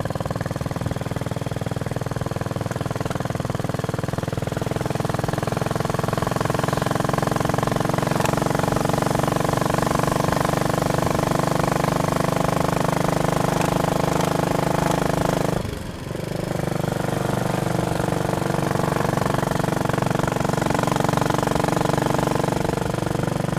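Royal Enfield Bullet Machismo 500's single-cylinder engine pulling steadily under way. It briefly drops away about sixteen seconds in, then pulls on at a slightly lower pitch.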